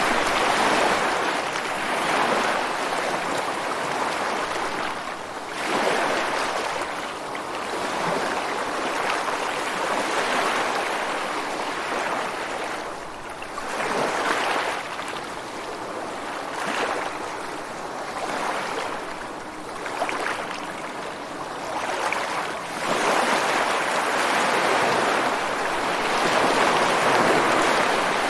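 Ocean waves breaking and washing against rocks on a beach: a continuous rushing surf that swells and ebbs every few seconds, loudest near the end.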